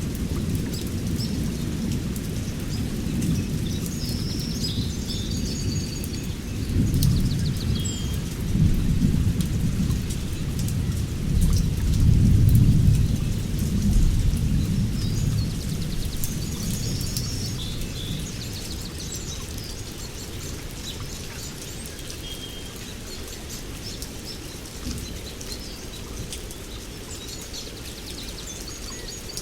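Thunder rumbling in long rolls, swelling about a quarter of the way in and dying away over the second half, while small birds chirp in short, high calls.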